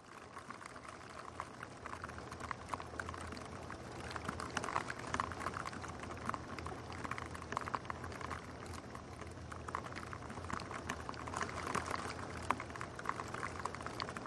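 Rain pattering on a window pane: a dense, irregular stream of fine drip ticks over a steady hiss, fading in over the first couple of seconds.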